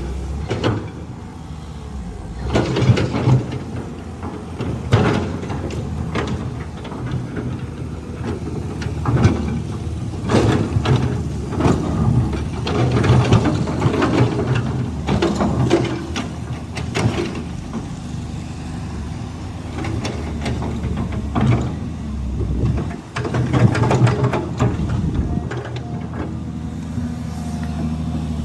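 Caterpillar 320 excavator's diesel engine running steadily under load, with irregular clanks, knocks and scrapes as the bucket works rock.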